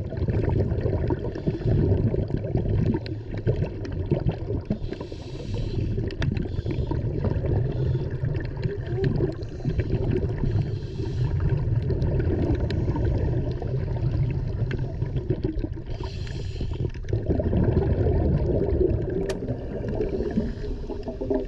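Water rushing and gurgling, with brief swells of hiss every few seconds.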